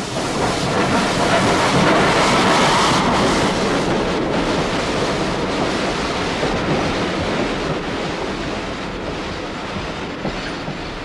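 A train passing close by at speed. The sound swells to its loudest about two seconds in, then slowly fades as it goes away.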